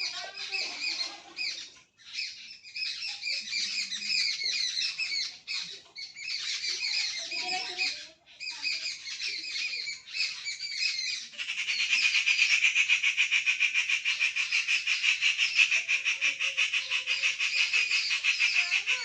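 A flock of small birds chirping and squawking in a busy, overlapping chorus, broken by a few short gaps. About eleven seconds in, a louder, rapid, steady chatter takes over.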